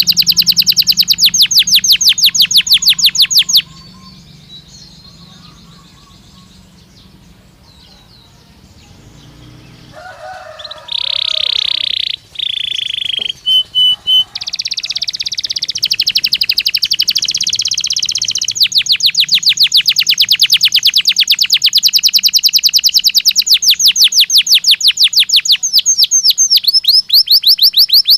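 Belgian (domestic) canary singing. It gives fast trills of rapidly repeated notes and breaks off about four seconds in. After a few quiet seconds it sings a long held note and a few short notes, then a buzzy roll that runs into another long, fast trill.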